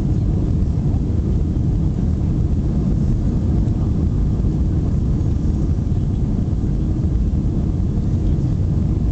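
Airbus A320 jet engines and airflow during takeoff, a steady low rumble heard from inside the cabin.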